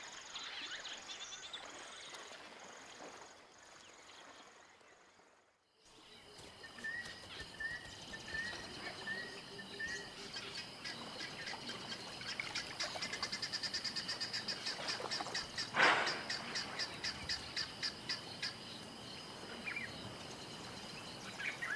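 African bush ambience of birds and insects calling. The sound drops out briefly about five seconds in, then comes back with a short run of repeated bird calls, a stretch of fast, evenly pulsed high calls, and a single sharp click about sixteen seconds in.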